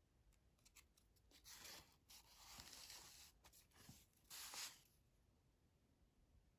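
Faint rustling and light handling of paper: journal pages, tags and pockets being moved and flipped, with a few small clicks, dying away about five seconds in.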